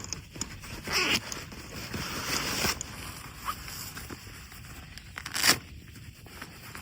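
Rustling and scraping of camp gear being handled, in several short scratchy bursts, with one sharp knock about five and a half seconds in.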